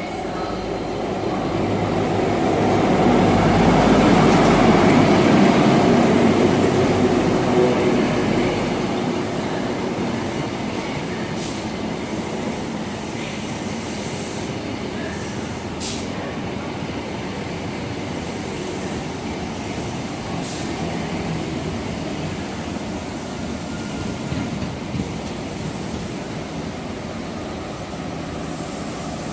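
A train running past, its rumble swelling to a peak a few seconds in and then dying back to a steady lower noise, with a few sharp clicks later on.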